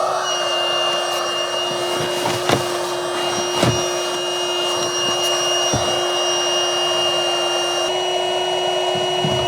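A small electric motor with a fan spins up to speed and then runs steadily, an even whir with a constant hum. A few light knocks sound over it, about two and a half and three and a half seconds in.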